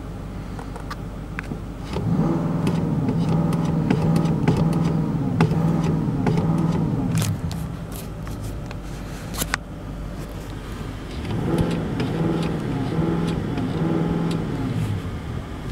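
Audi A8 60 TDI diesel engine revved in two spells, its pitch rising and falling several times in each, over a low steady hum.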